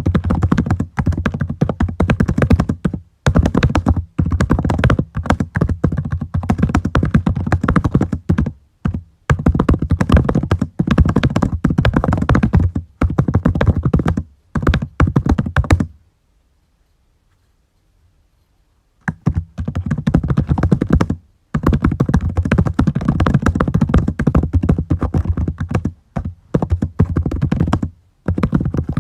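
Typing on a computer keyboard in fast runs of key clicks with short breaks, stopping for about three seconds around the middle before starting again.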